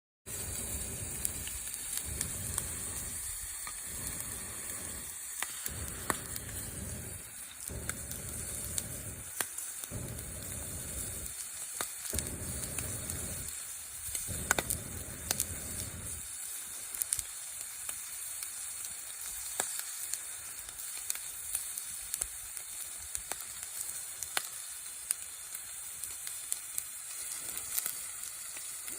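Bacon sizzling in a cast-iron skillet over a wood campfire, a steady hiss with scattered crackles and pops from the fire. A stop-start low rumble runs under it and stops about sixteen seconds in.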